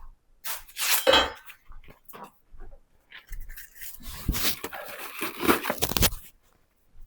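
Sandpaper scraping over a wooden log by hand: a short scratchy burst about a second in, then a longer uneven stretch of rasping strokes from about three to six seconds in.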